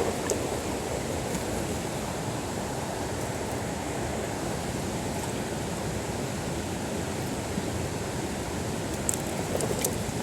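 Mountain stream water rushing steadily, with a few faint clicks near the end.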